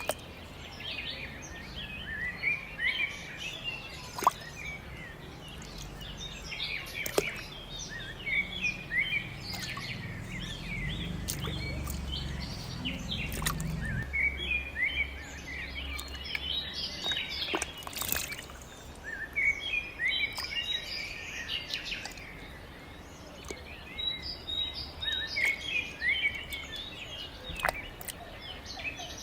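Many small birds chirping and twittering continuously, with a low steady hum underneath that stops about halfway through, and a few sharp clicks.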